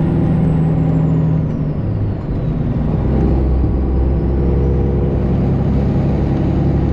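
Straight-piped Detroit Diesel 12.7-litre Series 60 in a Freightliner Classic XL, pulling under load. About a second and a half in the sound dips briefly, as on a gear change of the 13-speed, and the engine note then settles lower and steady.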